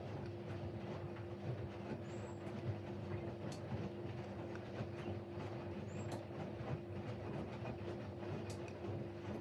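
Siemens Siwamat Plus 574 front-loading washing machine in its second rinse: the drum motor running with a steady hum, and occasional light clicks or knocks through it.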